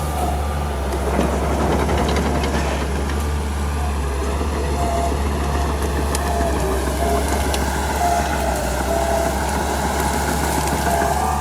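Bulldozer's diesel engine running steadily, with short high squeaks now and then.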